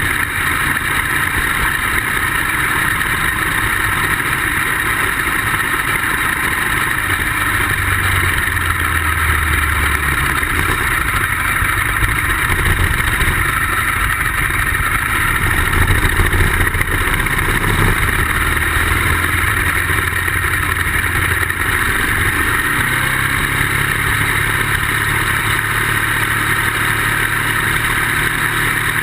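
Ducati motorcycle engine running at track speed under a constant rush of wind noise, its note shifting several times as the throttle and gears change. The owner says the bike was not running great.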